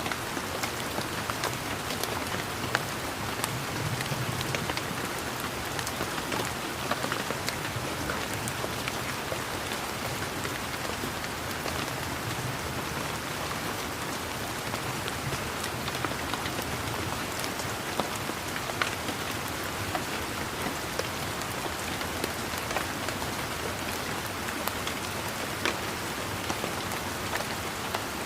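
Steady rain falling, with many sharp, scattered drop ticks throughout.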